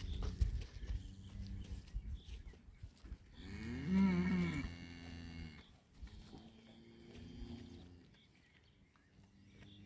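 Cow mooing: one long, low moo a few seconds in, the loudest sound here, then a quieter moo. A low rumbling noise fills the first couple of seconds.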